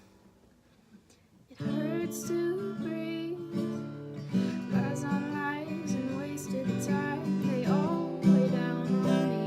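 Acoustic guitar strummed in chords, starting about a second and a half in after near quiet.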